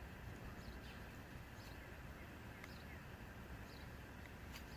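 Quiet background hum with faint, scattered bird chirps and a few small clicks.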